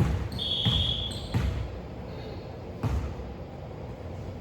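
A ball bouncing on a hard floor: three thuds about a second and a half apart, with a short high squeak about half a second in.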